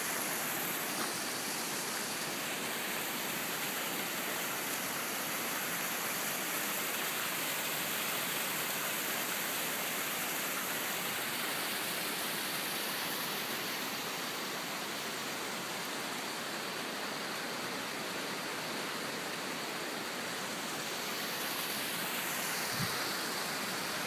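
Waterfall: steady, even rush of falling water, with a brief low bump near the end.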